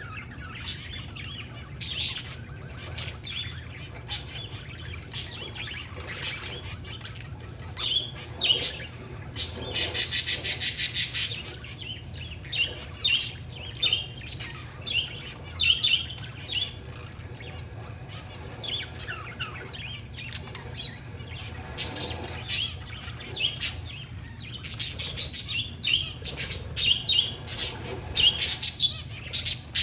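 Parakeets and zebra finches chirping: short, sharp chirps come throughout, with a rapid buzzy trill lasting nearly two seconds about ten seconds in, over a steady low hum.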